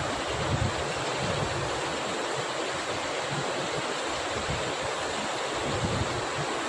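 Steady rain falling, an even hiss, with gusts of wind rumbling on the microphone.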